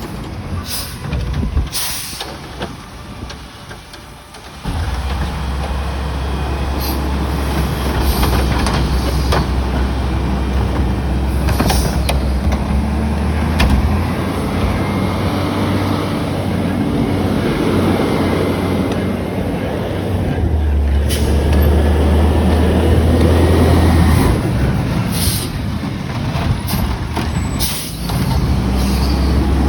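Garbage truck's diesel engine running heavily, coming up loud about five seconds in, with short sharp hisses of its air brakes now and then.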